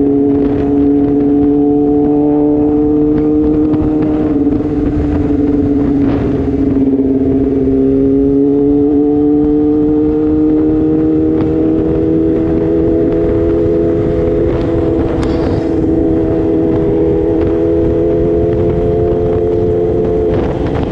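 Sport motorcycle engine running steadily at cruising speed, over wind rush. Its note dips a little about a third of the way in, then slowly climbs as the bike gathers speed.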